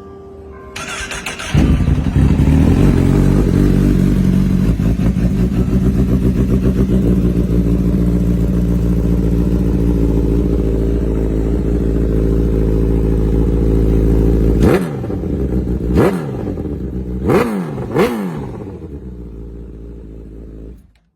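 Honda CBR1000RR SC59's inline-four engine through a Hotbodies Racing MGP exhaust, cranked over and catching about a second and a half in, then idling loudly. Near the end it is revved four times in quick succession, each rev rising and falling fast, before dropping back to idle and cutting off.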